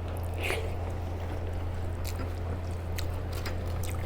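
Quiet eating sounds: soft chewing and small wet clicks and ticks from a rice-and-curry meal, with one slightly louder click about half a second in, over a steady low hum.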